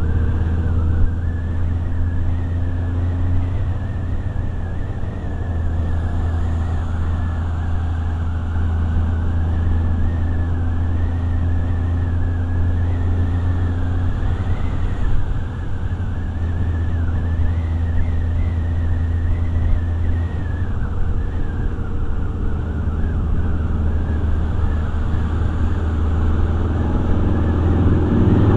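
Motorcycle engine running at a steady speed on the move, a low steady drone, with a high wavering whistle over it.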